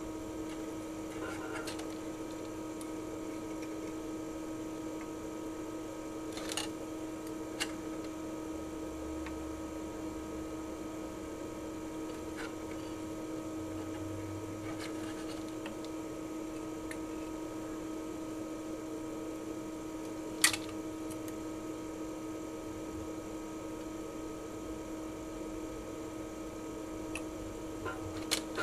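Steady electrical hum at the workbench, with a few small clicks and taps of tools; one sharper click about twenty seconds in.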